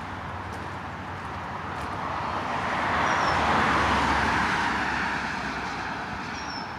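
A car passing on the highway: tyre and road noise swells up, peaks about halfway through and fades away. A bird gives a short high chirp twice.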